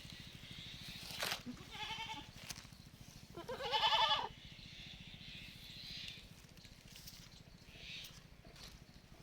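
Young goat (kid) bleating twice: a short call about two seconds in, then a louder, longer quavering bleat about halfway through. A sharp click comes just before the first call.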